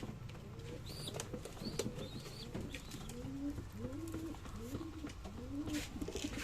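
Domestic pigeons cooing, short rising-and-falling coos repeating about once a second, with a few high chirps in the first half and scattered light clicks.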